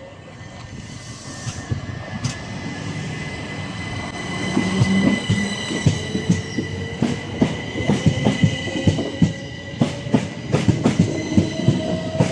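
Electric passenger train drawing into the station, getting louder. A steady high whine runs throughout, and the wheels click over the rail joints more and more often in the second half, with a rising tone near the end.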